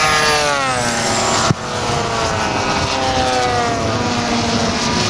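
Large-scale RC model warbird engines flying past, their pitch falling as they go by, with more than one engine audible. A single sharp crack cuts in about a second and a half in.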